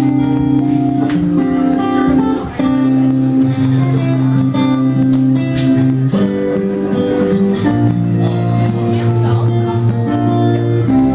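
Karaoke backing track playing its instrumental intro, led by strummed acoustic guitar over held chords that change every few seconds.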